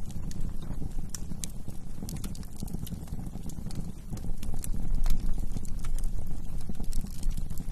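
Wood fire crackling: irregular sharp pops and snaps, several a second, over a steady low rumble of burning flames.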